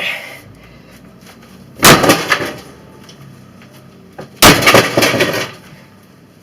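Two heavy sledgehammer blows crashing into a battered microwave oven, about two and a half seconds apart, each followed by a short clatter of loose metal and broken parts.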